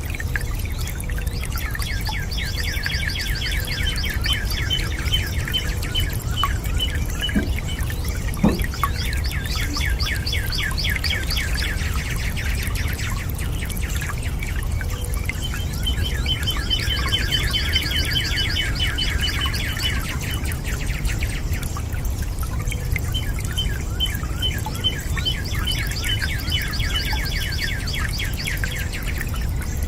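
A songbird singing in fast trilled phrases, four bouts of several seconds each, over the steady rush of running water.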